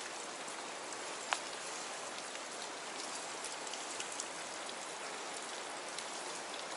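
Steady, even hiss of water, like rain falling on the surface, with one sharp click about a second in.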